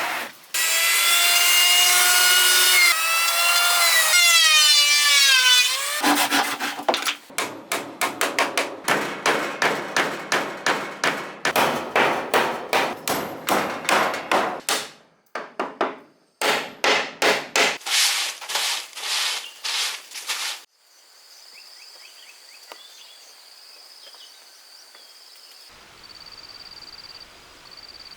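A power saw running loud and steady, its pitch sagging and wavering as it cuts. Then a hand saw works through wood in quick rhythmic strokes, about two a second, which stop about twenty seconds in. After that a faint steady high insect drone remains.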